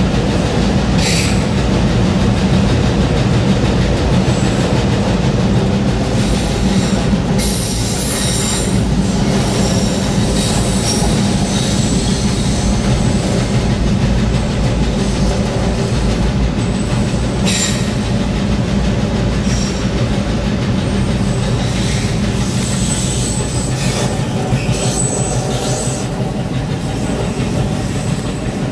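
Metre-gauge Vereina car-shuttle train running, heard from inside a car riding on its open wagon: a steady low rumble with several short high-pitched squeals from the wheels on the rails.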